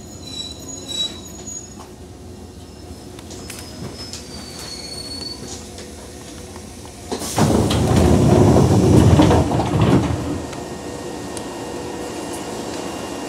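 Nishitetsu 2000-series electric train coming to a stop at a platform, with faint high brake or wheel squeals. About seven seconds in there is a loud rush of air for about three seconds as the doors open, then the steady hum of the standing train.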